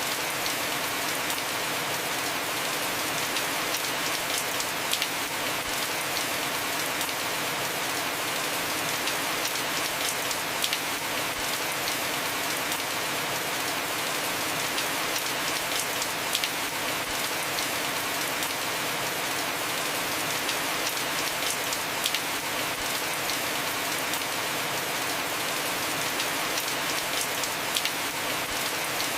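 Heavy rain falling on a house roof: a steady hiss of rain with scattered sharp drop ticks.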